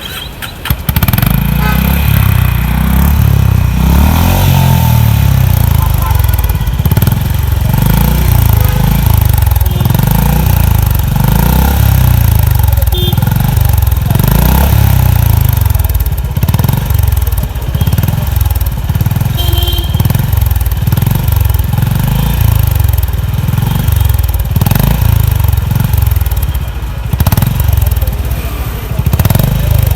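Honda H'ness CB350's air-cooled single-cylinder engine and exhaust, the low engine note rising and falling about once a second as it is revved over and over.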